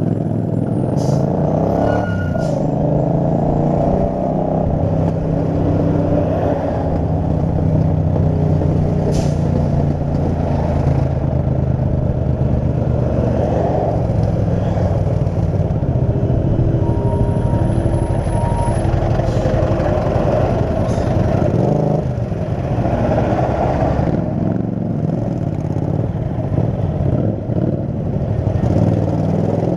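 Motorcycle riding on the highway: the Kasinski Mirage 250's V-twin engine runs steadily under wind noise, with heavy traffic around it.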